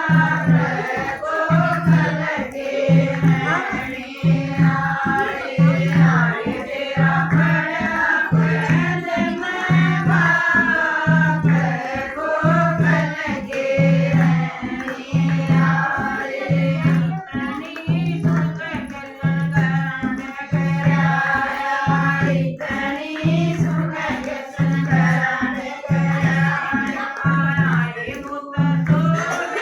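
Haryanvi devotional bhajan to Krishna: voices singing a melody over a steady, evenly paced low drum beat.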